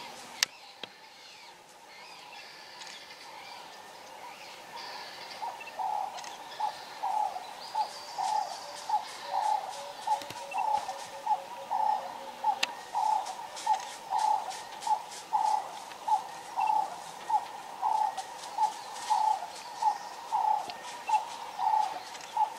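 A bird calling a long series of low hooting notes, about two a second, that begins a few seconds in and grows louder, over fainter chirps of other birds.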